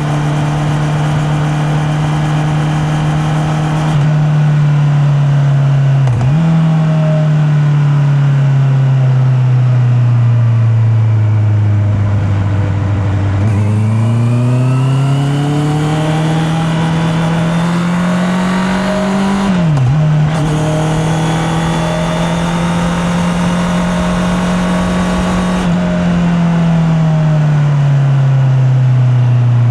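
Honda CB650R inline-four engine pulling the bike along, heard through a microphone in the rider's pocket. It cruises steadily, then rolls off with the pitch sinking and accelerates with it climbing. There are two quick gear changes, about six and about twenty seconds in, and it eases off again near the end.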